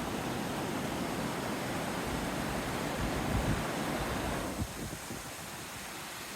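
A small mountain stream flowing over rocks: a steady rushing of water that turns a little softer about two-thirds of the way through.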